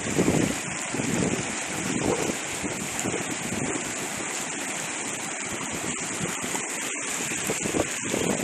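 Steady rush of heavy water, with wind buffeting the microphone in low, uneven rumbles.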